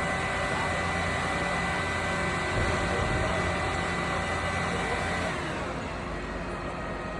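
An engine running steadily at a constant speed, then slowing down about five seconds in.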